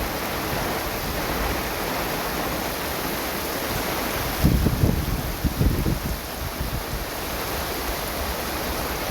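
Steady hiss of heavy rain and rushing rainwater. Short bursts of wind buffet the microphone between about four and a half and six seconds in.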